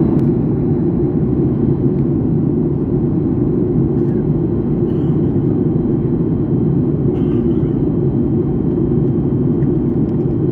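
Airliner cabin noise in flight: the steady low roar of the jet engines and airflow, with a faint steady high whine above it.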